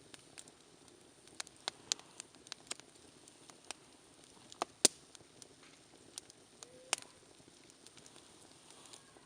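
Wood campfire crackling: irregular sharp pops and snaps over a faint steady hiss, the loudest pop a little under five seconds in.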